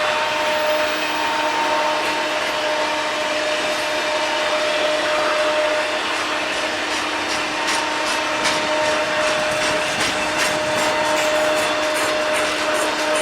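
Freight train rolling past: a steady rush of wheels on rail under a steady high whine, with a run of sharp clicks from about halfway through.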